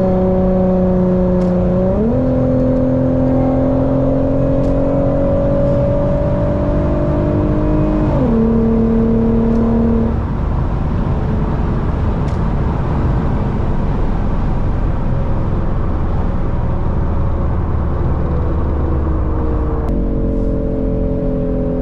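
Infiniti sedan's engine heard from inside the car at highway speed: the revs step up about two seconds in, climb slowly, then step back down just after eight seconds. For about ten seconds after that there is mostly steady road and tyre noise, and the engine note returns near the end, slowly falling.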